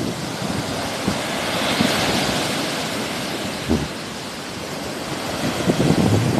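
Sea waves washing onto the shore, a hiss that swells about two seconds in and then recedes, with low rumbling wind on the microphone growing again near the end.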